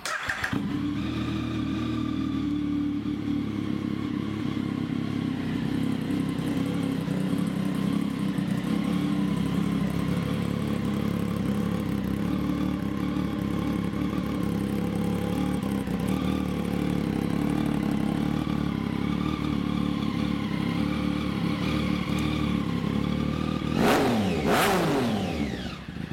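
2015 Triumph Speed Triple's 1050cc inline-three engine, breathing through an SC Project slip-on exhaust, starting and idling steadily, then blipped twice near the end, the pitch rising and falling with each rev.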